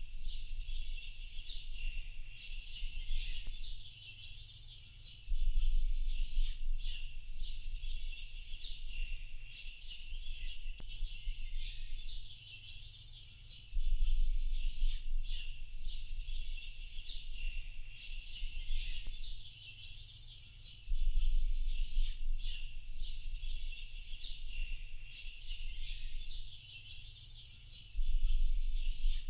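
A dense chorus of many small birds chirping and twittering without pause, high and bright. Under it a low rumble swells up for a few seconds and dies back, about every seven or eight seconds.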